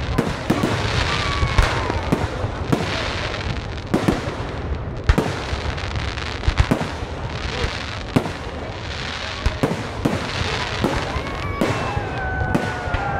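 Many sharp bangs and pops going off in quick, irregular succession over a continuous crackling hiss.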